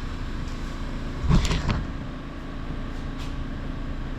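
A brief clatter of a few quick knocks about a second in, over a steady background hum.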